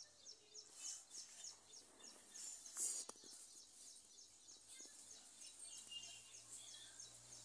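Faint, high bird chirps repeating several times a second over a quiet open-air background, with one brief knock about three seconds in.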